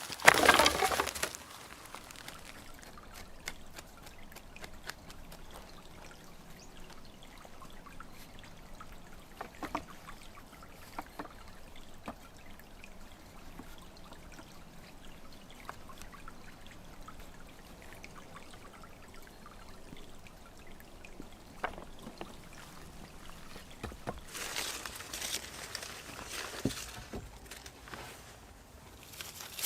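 Water being poured: a loud, short splash at the start and a few seconds of pouring and trickling near the end, with faint clicks and handling noises between.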